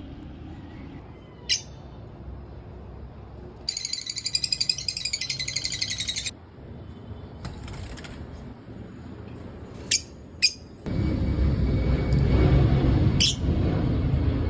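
African lovebirds giving several sharp, shrill chirps, with a burst of rapid, high-pitched chattering of a couple of seconds. About eleven seconds in, louder background music starts under the calls.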